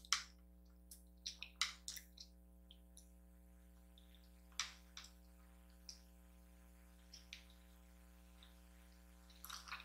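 Faint eating sounds: scattered soft wet smacks and clicks of someone chewing a mouthful of kimchi noodles, irregular and with pauses between.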